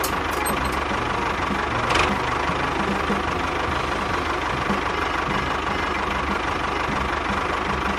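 Small tractor engine running steadily with a regular low chugging beat as the miniature model tractor drives along.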